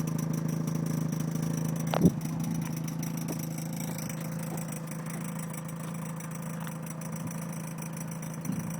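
2004 Mazda RX-8's 1.3-litre Renesis two-rotor Wankel rotary engine idling steadily, with one sharp knock about two seconds in.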